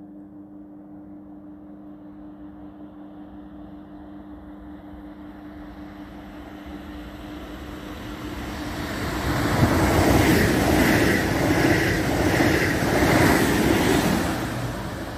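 A train approaching and passing close by at speed. A faint steady low hum at first builds into loud rushing rail noise with a rhythmic clatter of wheels, loudest from about ten seconds in.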